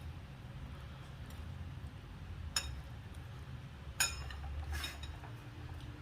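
Cutlery clinking lightly against a plate, once about two and a half seconds in and again about four seconds in, with a softer scrape just after, over a low steady hum.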